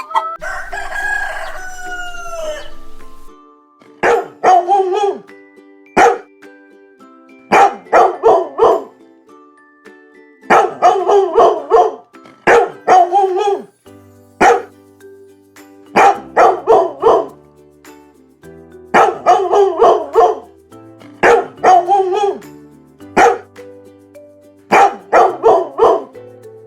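A rooster crows once at the start, then a dog barks in short runs of two to four barks every couple of seconds, over steady background music.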